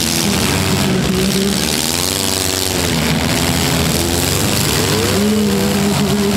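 Several four-cylinder demolition derby cars' engines running hard and revving as they push against one another. Engine pitch climbs about two seconds in, dips, then climbs again about five seconds in and holds high.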